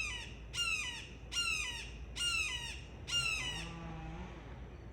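A bird calling loudly: five calls in a row, about 0.8 s apart, each falling in pitch, then it stops.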